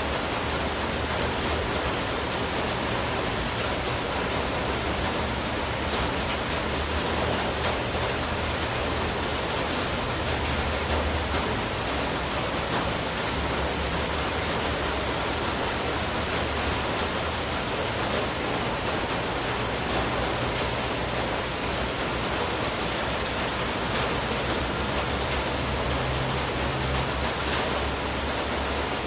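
Steady heavy monsoon rain falling: a dense, even hiss of rain with a few faint drop ticks, over a low rumble.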